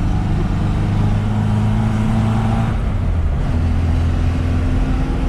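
Lada Zhiguli's four-cylinder engine running steadily, its note changing briefly about three seconds in before settling again.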